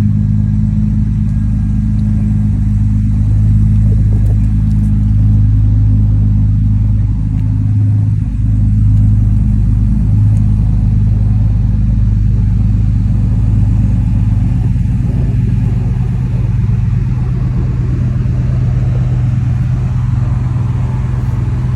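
Car engine idling steadily with a loud, low rumble, dipping briefly about eight seconds in.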